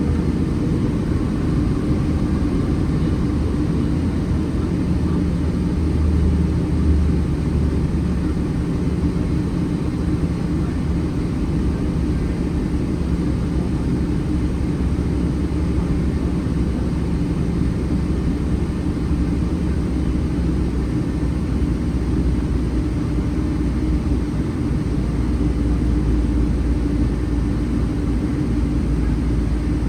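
Cabin noise of a Boeing 777-300 heard from inside: its Rolls-Royce Trent 800 turbofan engines running steadily, a low rumble with a steady hum and no change in pitch.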